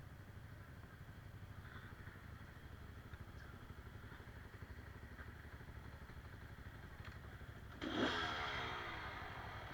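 Enduro motorcycle engine running low and steady, then revving up sharply and loudly near the end.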